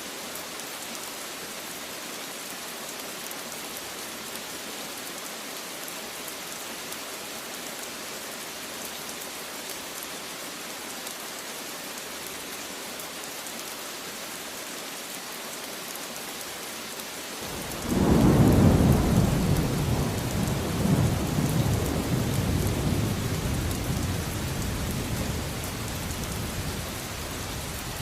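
Steady heavy rain hissing on surfaces; about two-thirds of the way through, a thunderclap breaks in suddenly as the loudest sound, and its rumble rolls on and slowly fades.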